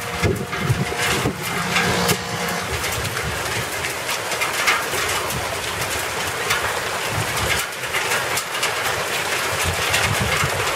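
Hail falling hard and striking hard surfaces: a dense spatter of small sharp ticks over a steady hiss.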